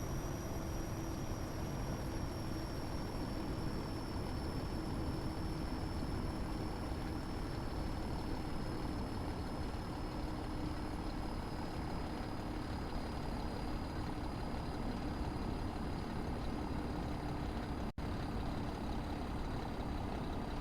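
A motor running steadily: a low rumble with a constant hum whose pitch drifts slightly lower.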